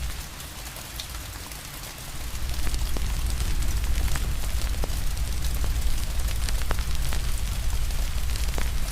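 Steady rain hiss mixed with the scattered crackles and pops of a wood fire, over a low rumble. The rumble drops away for about the first two seconds, then comes back.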